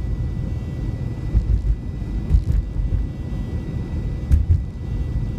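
Steady low road and engine rumble of a car cruising on a snowy highway, heard inside the cabin, with a few faint ticks.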